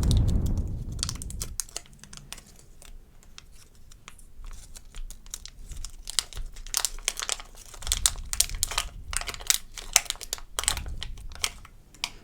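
Plastic packaging crinkling and crackling in close handling as a slime container is opened, with a dull handling bump at the start and dense crackles through the second half.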